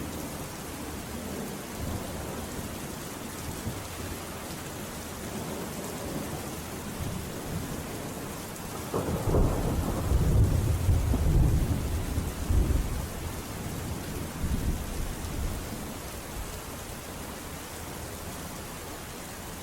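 Steady rainfall with a deep rumble of thunder that starts about halfway through, swells for a few seconds and fades away in smaller rolls.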